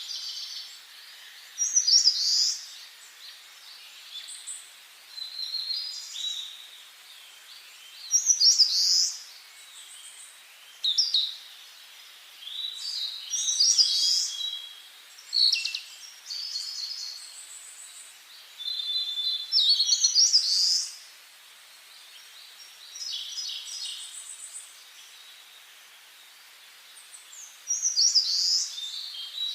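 Songbirds singing: short, bright song phrases repeated every few seconds, over a faint steady hiss.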